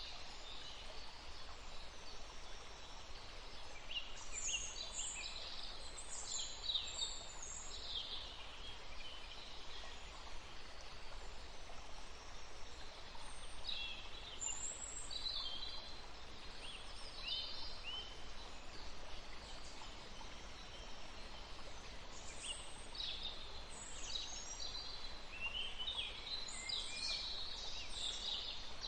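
Birds chirping in clusters of quick, high notes every few seconds, over a steady background hiss.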